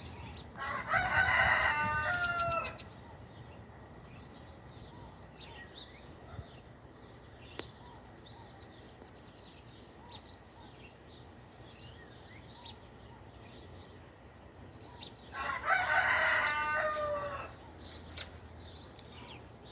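A rooster crowing twice, each crow lasting about two seconds: once about a second in, and again about fifteen seconds in. Small birds chirp faintly in between.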